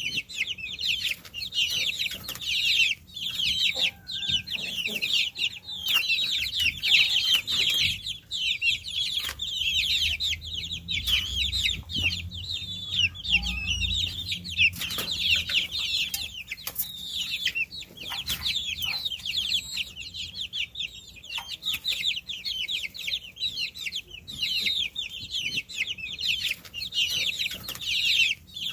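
A brood of baby chicks peeping continuously, many short, high-pitched calls overlapping.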